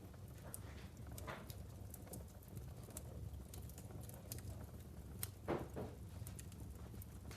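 Wood fire crackling in a fireplace: scattered sharp crackles over a low steady rumble, with a louder pop about five and a half seconds in.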